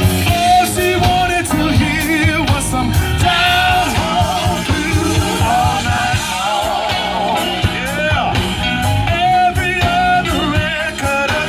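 Live band playing, with a singer over electric guitar, bass and drums in a blues and rock-and-roll style.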